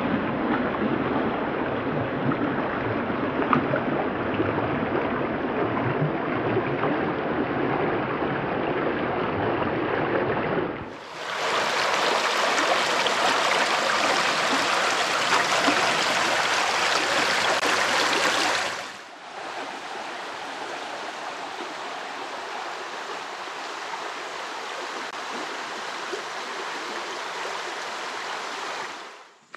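Creek water flowing steadily, heard in three cut-together stretches: a duller one, then about eleven seconds in a louder, brighter rush, then from about nineteen seconds a quieter steady flow.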